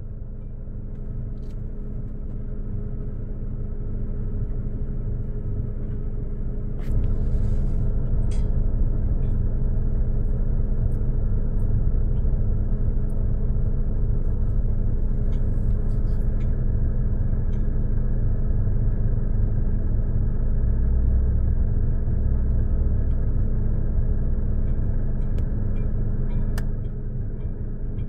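Car engine running with a steady low rumble and hum, heard from inside the cabin. It gets louder about a quarter of the way in and drops back shortly before the end.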